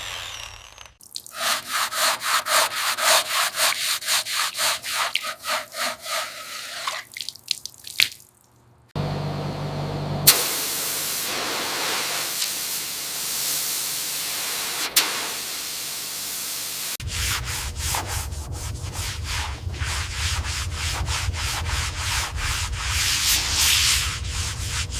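Abrasive sanding or scrubbing in several sections: fast back-and-forth strokes at about three a second, then a steady rasp with two sharp clicks, then strokes again over a low hum.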